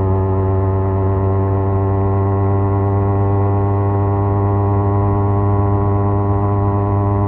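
Kawasaki Z250 parallel-twin engine drone through a SeaPro aftermarket muffler, cruising at steady revs.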